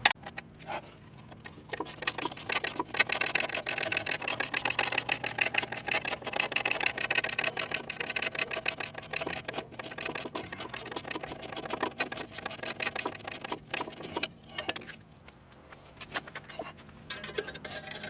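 Rapid, even metallic clicking of a ratchet wrench undoing the exhaust mounting bolts, for about twelve seconds, then stopping, with a few more clicks near the end.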